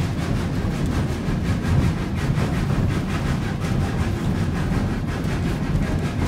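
Narrow-gauge steam train, hauled by 1926 Baldwin 2-8-0 #111, under way up a steep grade, heard from a passenger car. A steady low rumble of running noise with a faint quick, even pulse through it.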